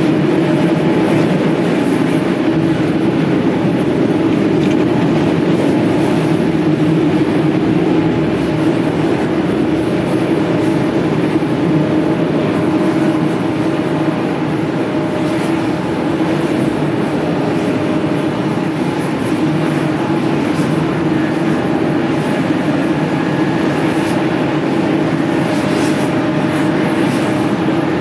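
Airbus A320neo jet engines running steadily as the airliner lands, a loud, even noise with a faint steady whine above it.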